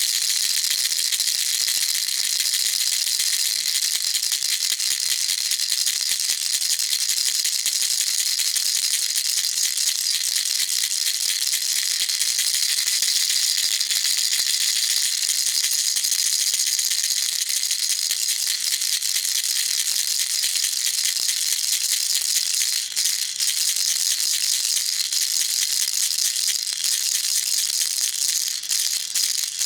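Baby rattle shaken without a break: a dense, fast, high-pitched rattling of small loose pieces, steady in level, with two brief slight dips near the end.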